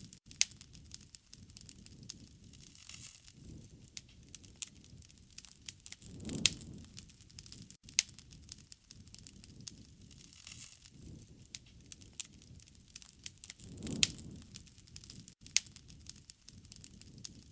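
Wood fire crackling: frequent sharp pops and snaps over a low rush of flames, which swells about six seconds in and again about fourteen seconds in.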